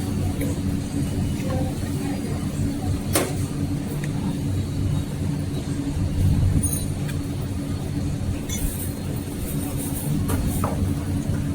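Steady low mechanical hum holding one constant tone, with a few sharp metallic clinks, one about three seconds in and another near the end.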